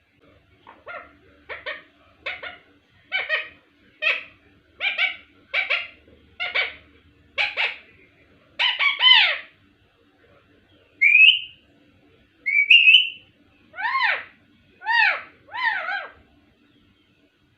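Ringneck parrot calling: a run of about a dozen short, evenly spaced calls, then two short rising whistles, then three more calls that fall in pitch.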